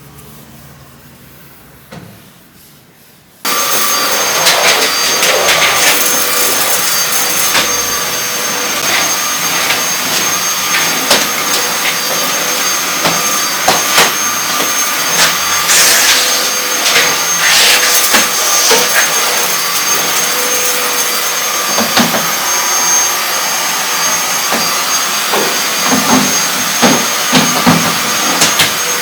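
Vacuum cleaner switched on about three and a half seconds in, then running steadily with a whining motor note. Scattered knocks and bumps come as it is pushed about, more of them near the end.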